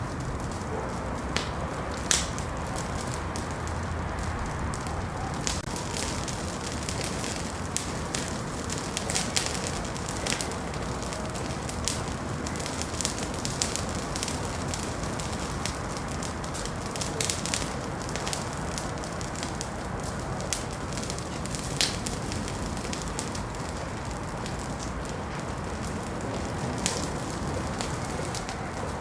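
Wood fire in a fireplace burning with a steady low rush and irregular sharp crackles and pops.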